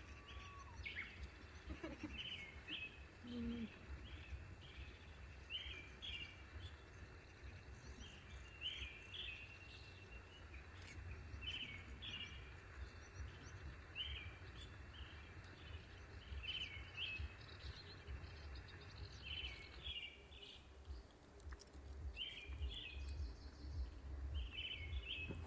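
A small bird calling outdoors with short chirps, repeated every second or two, over a low steady rumble of wind.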